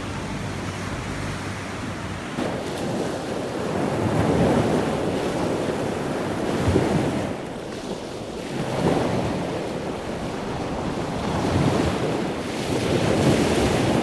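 Outdoor rushing noise of surf and wind, swelling and fading every few seconds as waves wash in, with wind buffeting the microphone.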